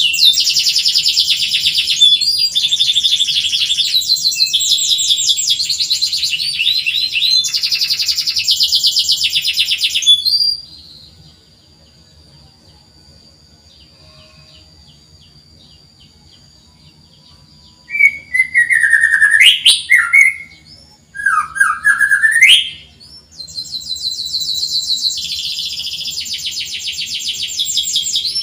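Domestic canary singing: long runs of fast, high trills for about ten seconds, then a pause. Loud swooping whistled notes follow after about eight seconds, then the rapid trilling starts again near the end.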